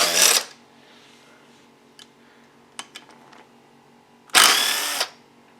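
Power drill/driver spinning out engine side-cover bolts in two short whirring bursts, one right at the start and one about four and a half seconds in, with a few faint clicks of metal parts between them.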